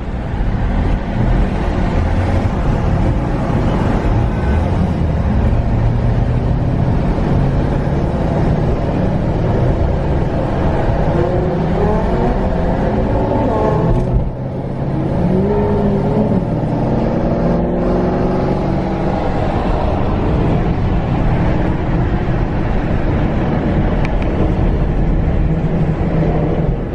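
Sports car engines running and revving as the cars drive off, with engine pitch rising and falling several times around the middle. The sound breaks off abruptly about fourteen seconds in and carries straight on.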